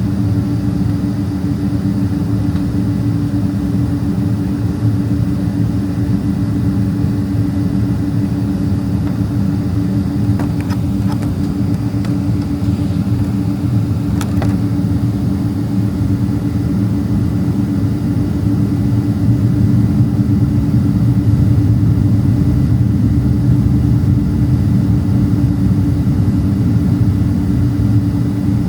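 Cabin noise of a Boeing 767-300ER taxiing: a steady low rumble from the engines at taxi power, with a steady hum running through it. A few faint clicks come about ten and fourteen seconds in, and the rumble grows a little louder about twenty seconds in.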